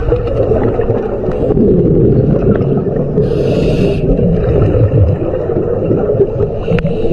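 Underwater sound from a diver's camera: a dense, muffled rumble and gurgle of water, with a brief hiss of exhaled air about three seconds in.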